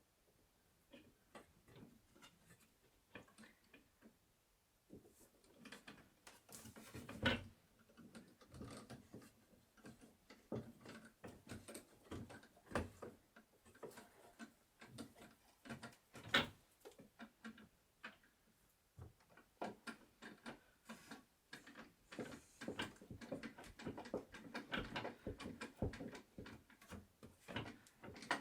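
Irregular knocks, taps and clatter of wooden bed parts being handled and fitted together during assembly, sparse at first and then frequent, with two louder knocks about seven and sixteen seconds in.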